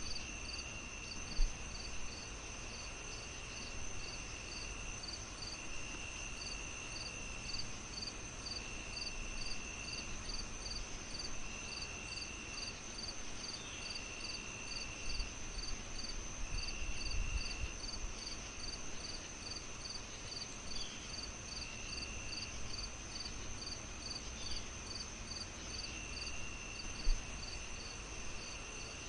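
Crickets chirping in a steady pulse of about two chirps a second over a constant high insect drone, with another insect trill that comes and goes every couple of seconds. Beneath them is a low crackling haze from a wood fire, with two sharp pops, one near the start and one near the end.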